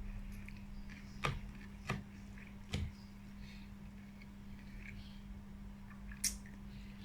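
Close-miked eating of a raw lettuce and cabbage salad: soft chewing crackles and four sharp crisp clicks, three in the first three seconds and one near the end, over a steady low hum.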